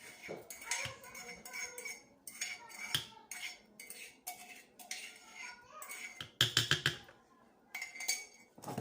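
A spoon scraping and clinking against a dish, knocking out leftover sugar, with the loudest knocks about six and a half seconds in.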